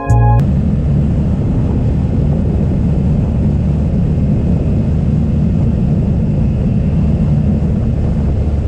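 Steady low rumble of wind buffeting the microphone together with vehicle noise, as heard while on the move.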